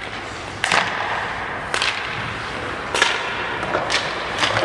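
A series of sharp slaps or knocks, five of them at uneven intervals, each with a short echoing tail.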